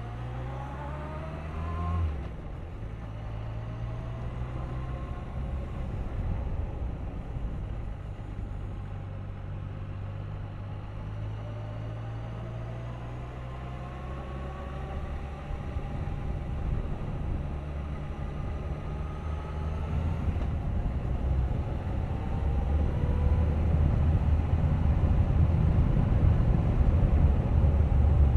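Suzuki GSX1250FA inline-four motorcycle engine under way, its pitch rising as it pulls, with a gear change about two seconds in. Toward the end, wind rumble on the microphone grows louder as the speed builds.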